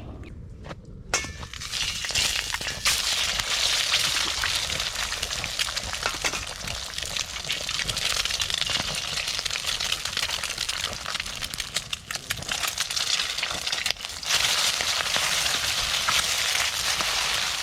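Food sizzling in hot oil in a wok over a campfire, with light metallic clinks of a utensil against the wok. The sizzle starts suddenly about a second in and grows louder near the end.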